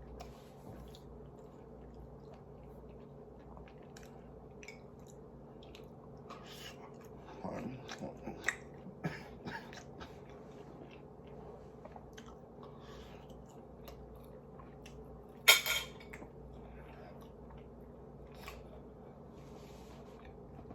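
Close-miked chewing of a shrimp, chicken and rice bowl: soft wet mouth clicks and smacks scattered through a steady low hum, livelier in a cluster about halfway. One sharp, loud smack or clink about three quarters of the way through.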